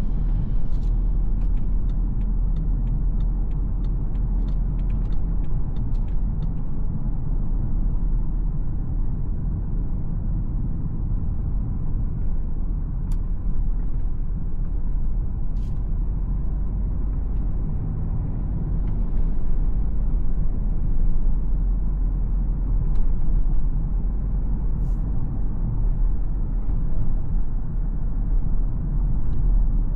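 Steady low rumble of a BMW X4 xDrive20d's 2.0-litre four-cylinder diesel and road noise while driving, with a run of faint clicks over the first several seconds and a few brief sharp sounds later on.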